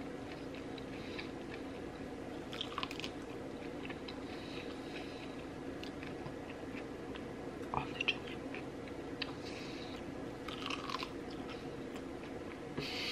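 Close-miked chewing and crunching of butter-toasted corn, in irregular bites and mouth clicks over a steady low hum.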